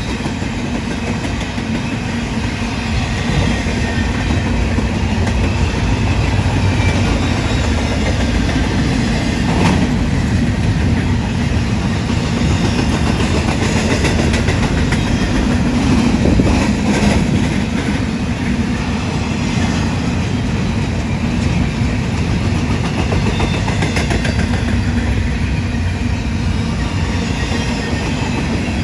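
Union Pacific intermodal freight train's cars rolling past with a steady wheel-on-rail rumble and occasional clacks over rail joints.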